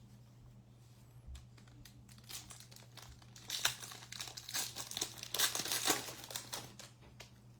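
Foil wrapper of a trading-card pack crinkling and tearing, in a run of crackles from about two seconds in, busiest in the middle and stopping shortly before the end.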